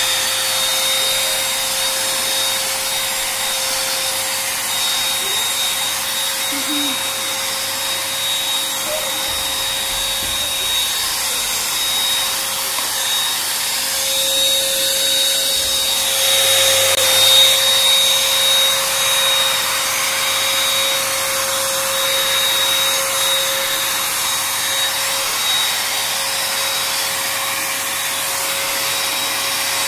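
Small 800-watt hand vacuum cleaner running steadily with a constant whine while cleaning dust off a carpet, a little louder about halfway through.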